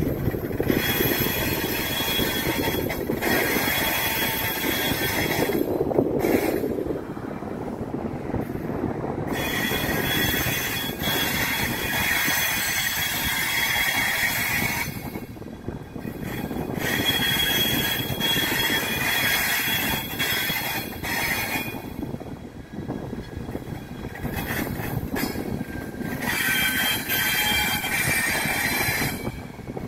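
Passenger train coaches rolling slowly through curved track and points. The wheels squeal on and off in stretches of a few seconds, over a steady low rumble of the running gear.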